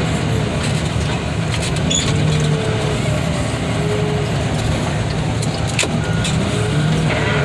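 Heavy diesel machinery running steadily, its engine note rising and falling slightly as it works, with a sharp knock near the end.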